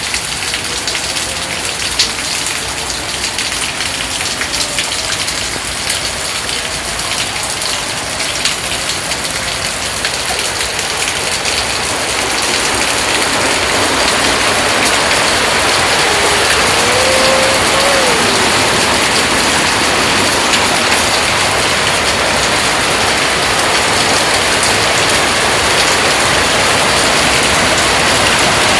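Steady rain falling and splashing on hard surfaces, growing heavier partway through. A single short wavering tone sounds faintly near the middle.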